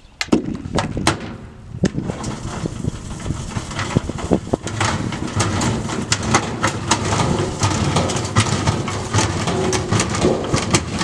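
Washing machine running with bricks in the drum: irregular knocking and clattering over the machine's low rumble, growing denser after about two seconds.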